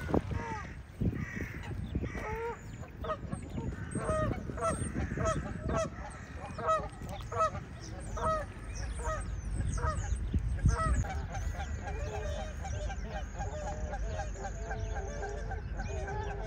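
A flock of Canada geese honking, with many short calls overlapping in a busy run through the first half and softer, quicker calling after that.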